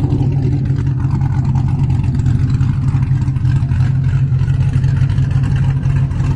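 Cadillac V's engine and freshly modified exhaust droning steadily while the car cruises, heard from inside the cabin.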